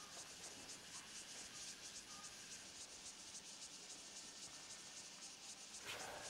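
Near silence: faint room tone with a soft, even high hiss.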